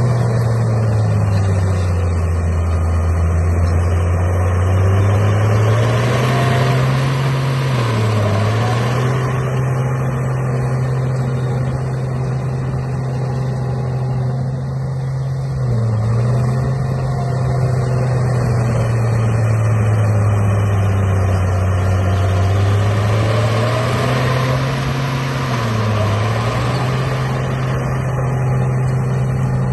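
A vehicle engine running steadily. Its low note dips and rises in pitch every several seconds, with higher whining glides above it.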